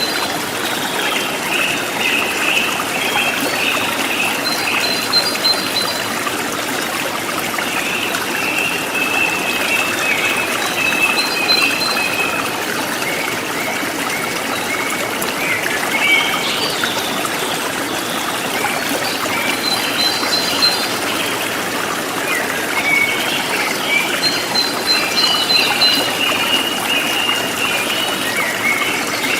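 River water flowing steadily, with thin high tones coming and going above it every few seconds.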